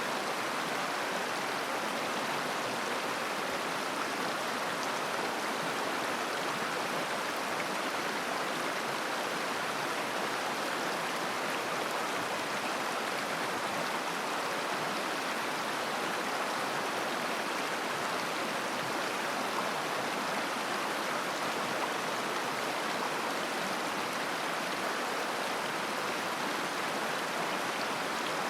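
Shallow mountain river running over stones, a steady, even babbling rush of water.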